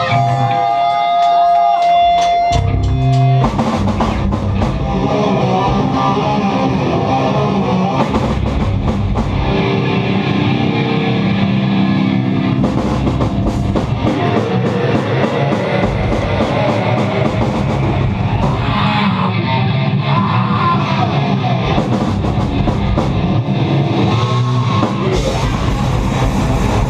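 Live rock band playing with electric guitar and drum kit. A single held note rings for the first three seconds, then the full band comes in and plays on steadily.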